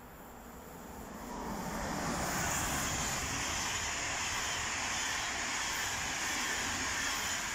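ÖBB Railjet passenger train passing close by at speed: a steady rush of wheels on rails and air, building over the first two seconds as it arrives, then holding loud and even.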